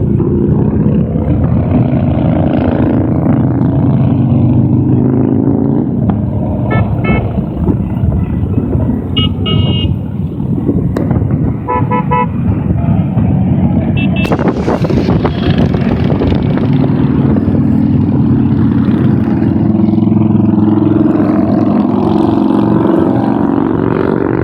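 A stream of motorcycles riding past with engines running steadily, and a few short horn toots in the middle.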